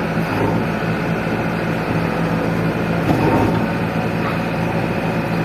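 JCB 3DX backhoe loader's diesel engine running with a steady low drone.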